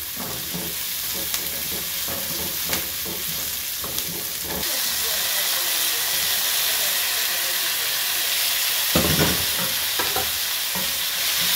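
Chopped onions sizzling in hot oil in a non-stick frying pan, stirred with a slotted spatula that taps and scrapes the pan. About four and a half seconds in the sizzle grows louder as chopped tomatoes go into the pan, and later a few louder scrapes and knocks of the spatula follow.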